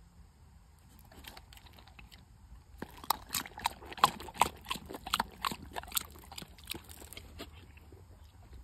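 Belgian Malinois lapping water from a poured stream, a quick run of wet laps at about four a second that starts about three seconds in and fades out near the end.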